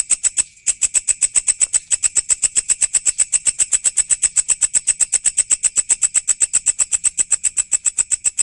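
Walang, an Indonesian singing grasshopper, stridulating: a fast, even train of sharp, high chirping pulses, about ten a second, with a brief break about half a second in.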